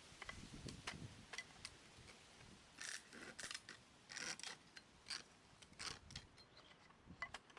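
Wood being worked by hand with a blade: a string of short, sharp scraping strokes and light clicks, spaced irregularly about a second apart.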